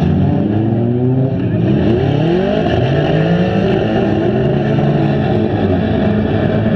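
Several stock front-wheel-drive cars' engines running and revving together as they race on a dirt track, their pitches overlapping and rising and falling with the throttle.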